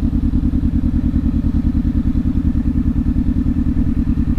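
Parallel-twin motorcycle engine running steadily with an even, pulsing beat at an unchanging pitch.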